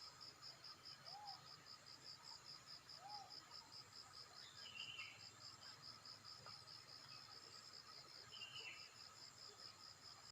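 Faint forest ambience: an insect trilling steadily in a fast high pulse, about five beats a second, with a few faint short bird calls.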